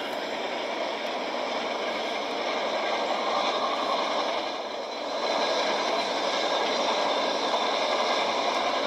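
A long intermodal freight train's container cars rolling past on the rails: a steady, noisy rumble that dips briefly and then gets louder about five seconds in. It is heard thin, with no deep bass, as if played back through a small screen speaker.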